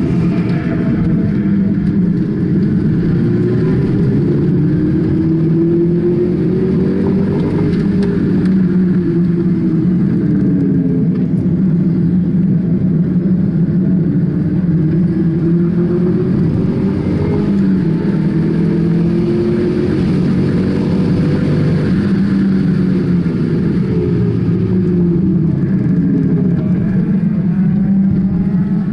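Car engine heard from inside the cabin during a hard lap on a race circuit, its pitch climbing under acceleration and dropping back several times as the car goes through the gears and corners.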